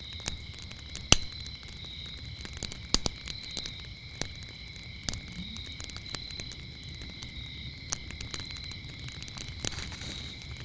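Wood fire crackling with irregular sharp pops, the loudest about a second in and a pair near three seconds, over a steady high chorus of crickets chirping.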